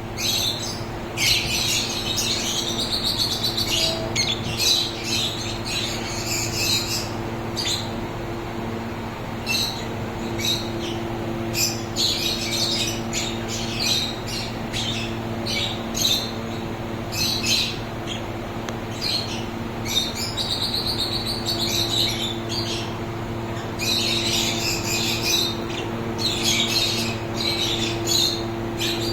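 Small pet birds chirping and chattering in repeated bursts of high, quick notes, with occasional squawks, over a steady low hum.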